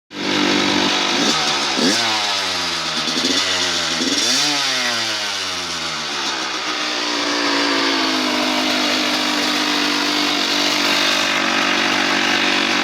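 Kawasaki KX100 single-cylinder two-stroke dirt bike engine running: the throttle is blipped several times in the first few seconds, the revs rising and falling, then it settles to a steady idle.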